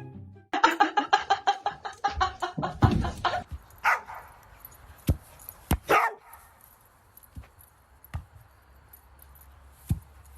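A dog barking: a fast run of short barks for about three seconds, then two single barks, then quieter with a few sharp knocks.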